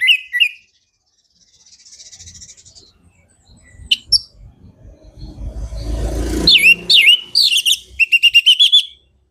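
Orange-headed thrush singing loud whistled phrases, ending in a fast run of repeated notes, with a low rustling rumble just before the loudest phrases.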